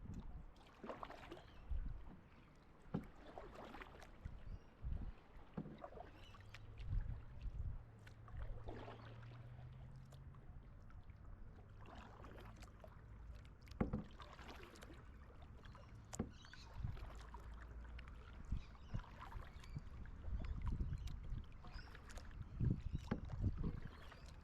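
Kayak paddle strokes dipping into the river, soft irregular splashes and drips every second or two, with a faint low hum for a few seconds near the middle.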